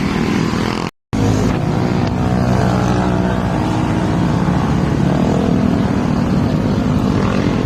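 Motorcycle engine running steadily while riding along, with road noise, cutting out completely for a moment about a second in.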